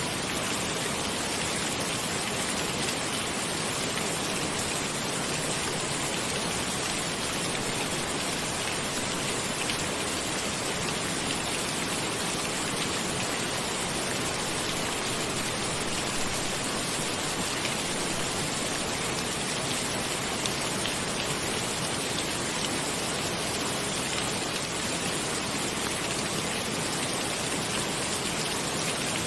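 Steady rain falling without letup, with fine individual drops ticking through the hiss.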